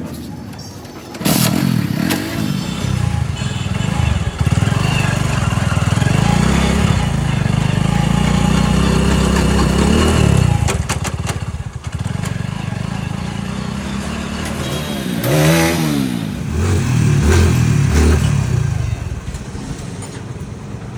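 A vehicle engine starts suddenly about a second in and runs loudly, then is revved up and down a few times in the second half.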